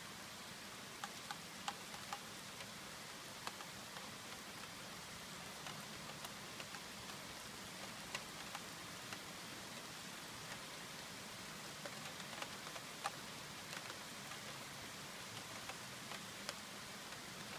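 Rain falling steadily: an even hiss with scattered sharp drips tapping at irregular intervals.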